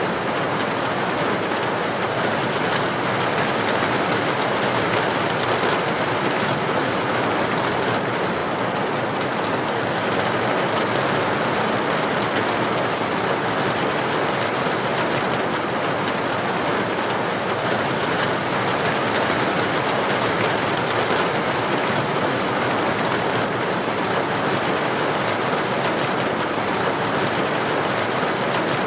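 Heavy rain pouring steadily onto a street, an even hiss of water with no let-up.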